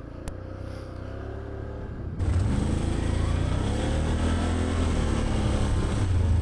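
Can-Am Outlander 850 ATV's V-twin engine idling low, then running louder under throttle from about two seconds in as the machine sets off.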